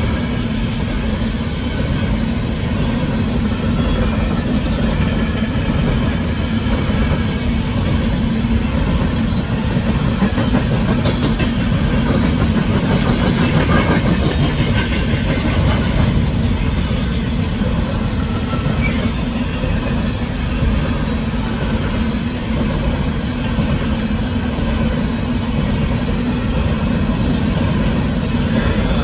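Union Pacific coal train's hopper cars rolling steadily past: a continuous loud rumble of steel wheels on the rails.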